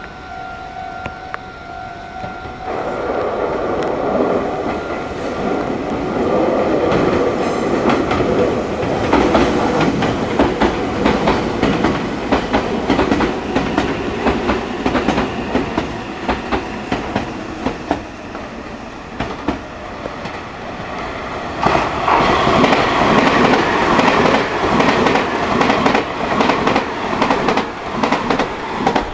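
Meitetsu electric train running through the station, its wheels clacking rapidly over the rail joints. The noise builds after a steady two-tone sound stops about two and a half seconds in, and swells again past the twenty-second mark.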